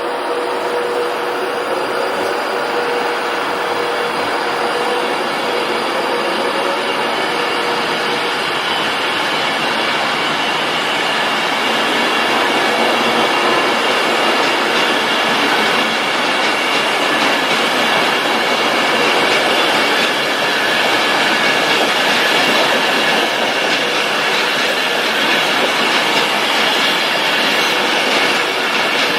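Train running on the rails through the station: a continuous loud rumble with thin, steady high-pitched tones, getting gradually louder.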